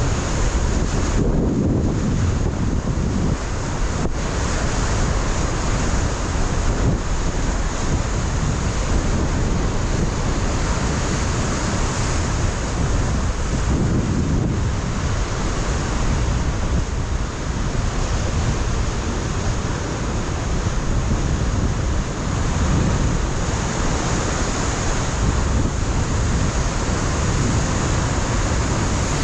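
Ocean surf breaking on a rocky shore, a continuous rush with heavier surges about a second in, around the middle and again later, mixed with wind buffeting the microphone.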